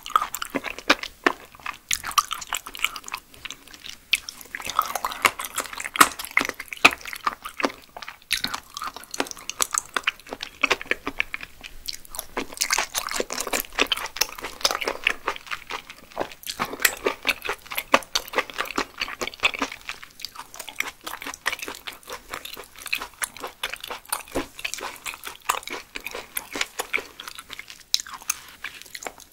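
Close-miked eating of raw yellow stingray liver: continuous chewing with many quick mouth clicks and smacks.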